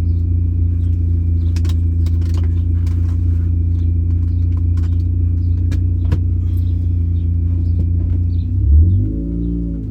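Supercharged 2004 Mini Cooper S four-cylinder engine running at steady revs while driving, heard from inside the cabin, with scattered light clicks and rattles. Near the end the engine note swells and shifts in pitch.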